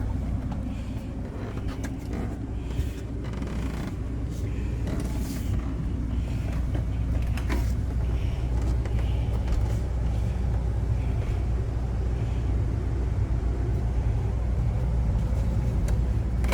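Steady low machine hum, with a few light clicks and knocks over it.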